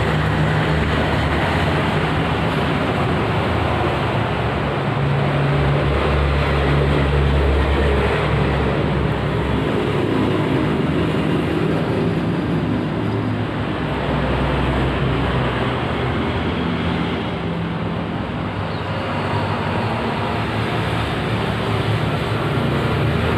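Steady vehicle noise with a low rumble that swells and fades several times.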